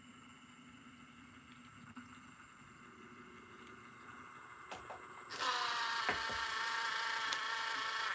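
Model railway equipment running: a loud, steady mechanical whirring with a buzzing tone starts suddenly about five seconds in and cuts off at the end.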